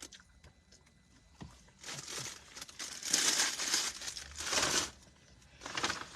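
Sandwich wrapper crinkling in several short bursts as it is handled.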